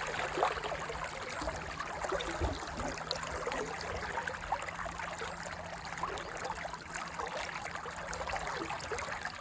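River water running and rippling steadily, with small scattered ticks and splashes.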